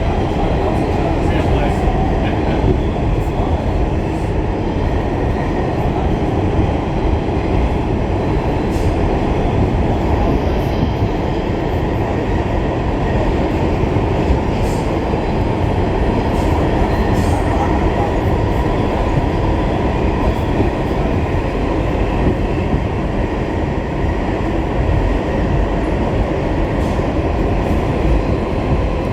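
Pullman Standard R46 subway car running along the track, heard on board: a steady, loud rumble of wheels and running gear on the rails, with occasional faint clicks.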